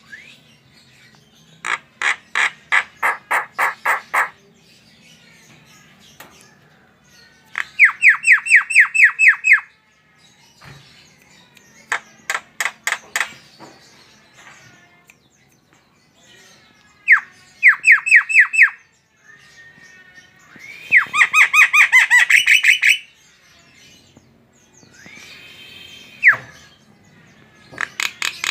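Javan myna (jalak kebo) calling in loud bouts of rapid repeated notes, about six or seven notes a second, each bout lasting one to two seconds with short pauses between, seven bouts in all.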